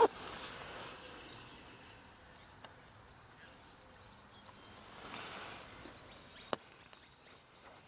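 Faint outdoor ambience with a small creature's short, high, falling chirps repeating about twice a second for the first few seconds, then stopping. A sharp click comes at the very start, lighter clicks follow later, and a brief breathy hiss comes about five seconds in.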